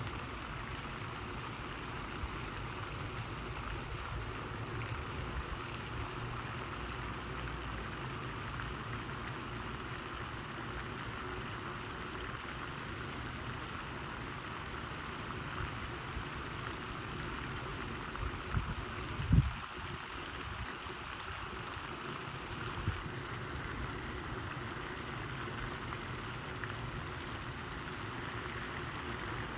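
Steady outdoor background noise: a constant high-pitched hum over a low rumble, with a few brief knocks about two-thirds of the way in, the loudest near the 19-second mark.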